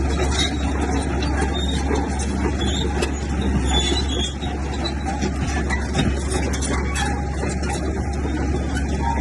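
Komatsu bulldozer's diesel engine running steadily under a constant low rumble, with rapid metallic clatter from the machine throughout.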